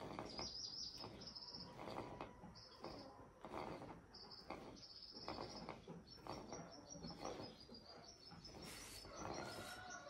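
A small bird chirping repeatedly in short high notes, with a quick run of notes partway through, over soft close-up chewing noises. A thin steady whistle starts near the end.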